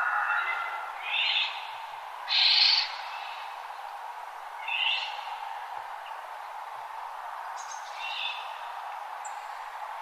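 Birds calling in short, separate calls a few seconds apart, the loudest about two and a half seconds in, over a steady background hiss of outdoor ambience.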